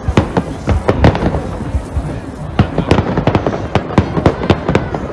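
Fireworks display going off: a fast, irregular string of sharp bangs and crackles, several a second.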